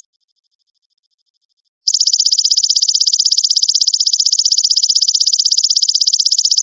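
Belalang emas (golden grasshopper) insect calling: a faint, thin pulsing tone for nearly two seconds, then a loud, rapid, high-pitched buzzing trill starts abruptly and carries on.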